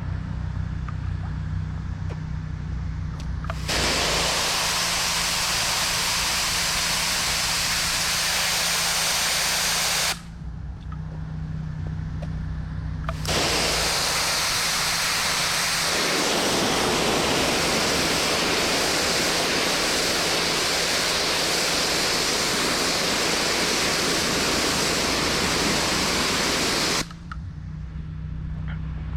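Pressure washer's engine running steadily while the high-pressure spray hisses onto concrete in two long bursts: from about four seconds in to about ten seconds, then from about thirteen seconds until shortly before the end.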